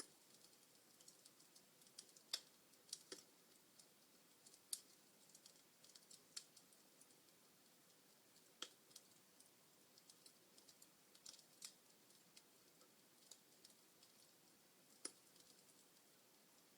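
Wood fire in a fireplace crackling faintly: irregular sharp snaps and pops over a soft hiss, the sharpest about two seconds in.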